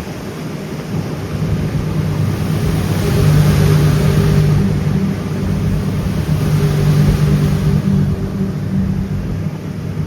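Sea Ray 260 Sundeck's 300 hp Mercury engine running steadily under way, with a rushing noise of wind and water over it that swells twice, about three and seven seconds in.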